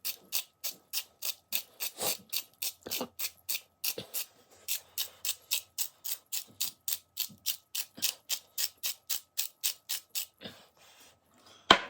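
Container of chicken seasoning being shaken or worked over the meat, making a fast, even rattle of sharp clicks, about four to five a second, that stops shortly before the end.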